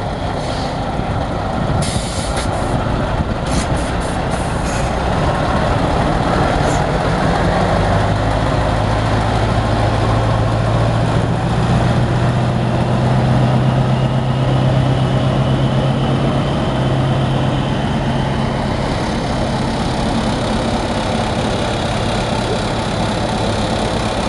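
Heavy diesel lorry engine running, its deep note growing stronger from about eight seconds in and easing a little near the end. A few short air hisses come about two to five seconds in.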